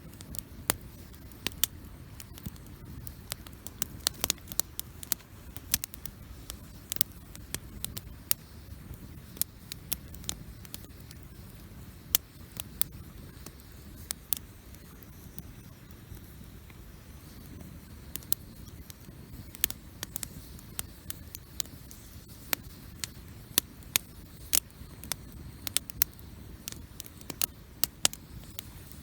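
Wood campfire burning: irregular sharp crackles and pops over a steady low rush.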